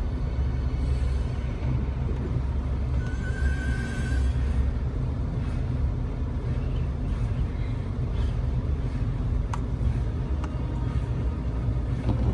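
Steady low rumble of a Jeep Wrangler being driven slowly through snow, heard from inside the cab.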